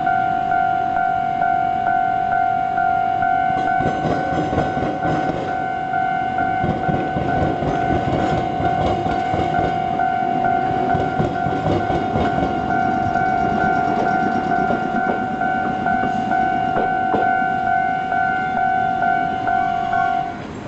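Level-crossing warning bell ringing in a steady rapid pulse while a train passes over the Iyo Railway diamond crossing, its wheels rumbling and clacking over the crossing rails. The bell stops just before the end.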